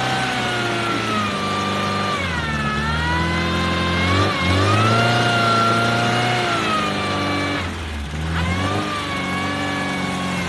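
VAZ 21099's four-cylinder petrol engine revving up and down under load as the car pushes through deep mud. The engine drops off briefly about eight seconds in, then picks up again.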